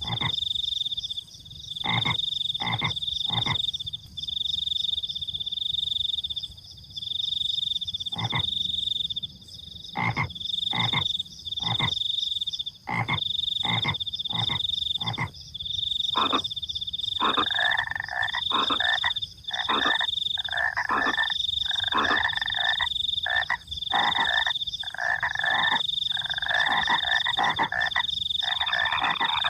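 Frogs croaking at night: short, sharp knocking calls, joined from about halfway through by a faster run of louder, rasping croaks. Under them, crickets trill high and steadily in bursts of about a second.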